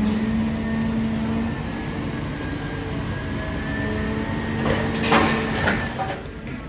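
Idromec T 650 CLS scrap metal shear baler running, its hydraulics giving a steady hum that weakens after about a second and a half, with a few metal clanks and scrapes about five seconds in.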